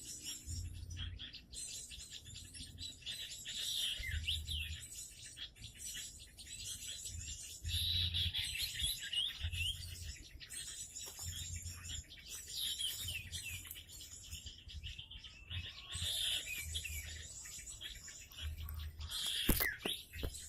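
Small songbirds chirping and calling over and over in short, high, quickly sliding notes. Beneath them are soft low pulses about every two seconds, and a sharp knock sounds near the end.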